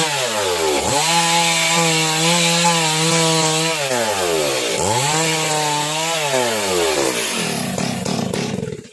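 Stihl chainsaw ripping mahogany lengthwise, its engine held at high revs under cutting load. Twice the throttle eases, the pitch dropping and then climbing back. Near the end it falls to a rough, lower running and fades out.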